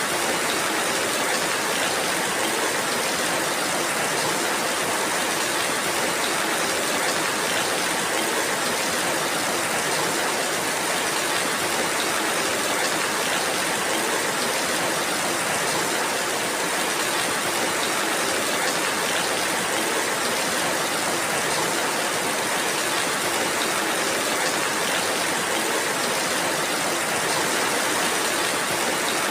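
Steady rainfall, an even hiss of rain with faint scattered drop ticks, unchanging in level throughout.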